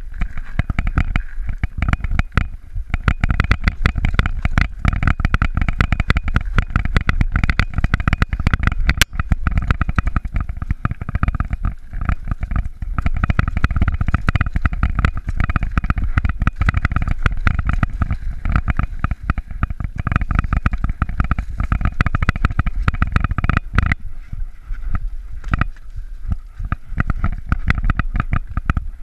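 Mountain bike being ridden over a rough trail: the bike rattles and clatters without a break, over a steady low rumble.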